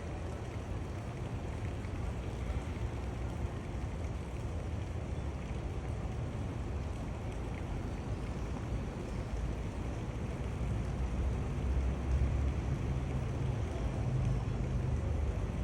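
Steady outdoor background noise: a low rumble under a soft hiss, with no distinct events, the rumble growing heavier about eleven seconds in.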